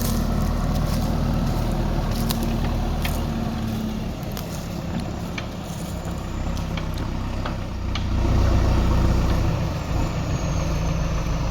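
Heavy diesel engine running steadily. Its pitch drops about four seconds in, and it runs louder for a second or so around eight seconds, under load. Scattered sharp knocks sound over it.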